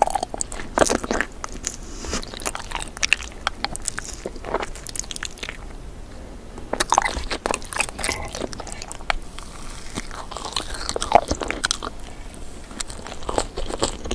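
Close-miked eating ASMR: a person biting into and crunching a sugary dessert, with chewing between bites. There are many irregular crisp crackles, and the loudest crunch comes about 11 seconds in.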